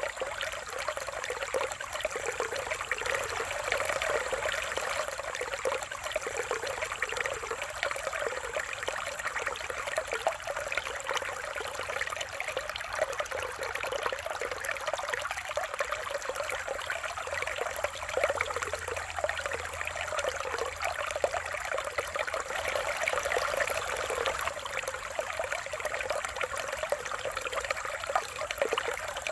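Mountain valley stream splashing and trickling over rocks, a steady babbling water sound.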